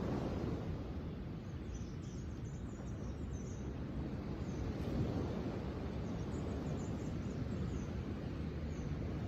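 Outdoor nature ambience: a steady low rush of outdoor noise, with small birds chirping in short high calls scattered through it.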